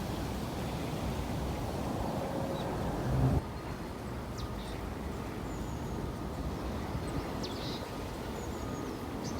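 Wind rumbling on the microphone outdoors. About three seconds in it cuts abruptly to a quieter outdoor background with a few faint bird chirps.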